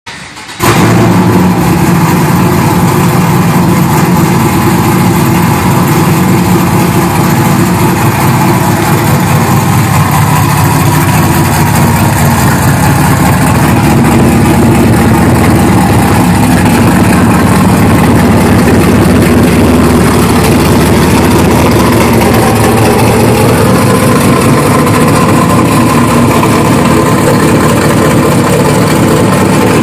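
LT1 V8 of a fourth-generation Pontiac Firebird Trans Am running at idle and low speed as the car creeps forward. The sound is loud and steady and comes in abruptly about half a second in.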